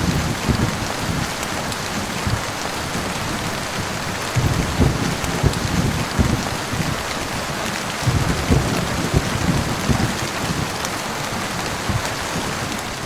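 Heavy rain falling steadily, with low rolls of thunder rumbling in and out three times.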